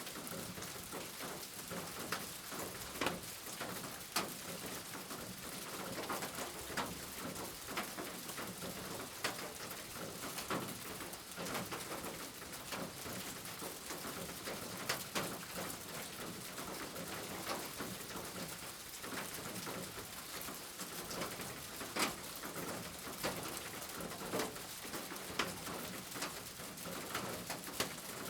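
Steady rain, with individual drops ticking sharply on a hard surface, and a pigeon cooing.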